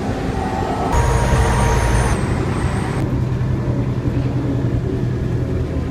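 Bus cabin noise while riding: a steady low engine drone with road noise, its character shifting abruptly about a second in.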